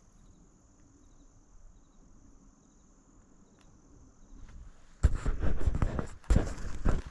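A steady high insect buzz with a few faint chirps, then, about five seconds in, loud irregular crunching and rustling of someone walking through dry brush.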